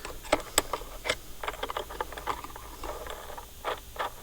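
Irregular light clicks, taps and rattles of small hard parts and tools being handled and set down.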